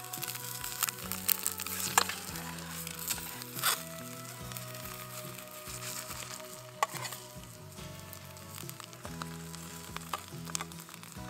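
Two-egg omelet with bacon bits frying in a stainless steel plate-skillet over an alcohol stove flame: a steady sizzle, with a few sharp clicks of the metal spatula against the pan.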